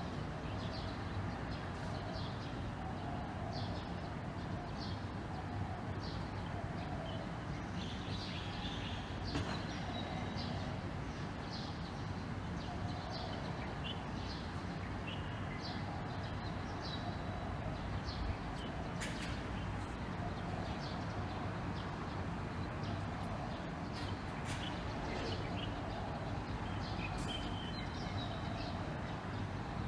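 Small birds chirping, with many short high chirps scattered throughout, over a steady low background rumble.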